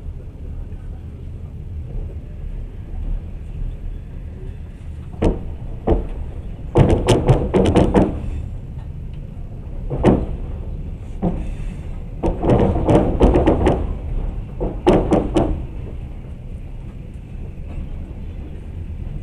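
Passenger train running with a steady low rumble, heard from inside the carriage. Over it come sharp metallic clacks of the wheels over the rails, some single and some in quick clusters, from about five seconds in until about two-thirds of the way through.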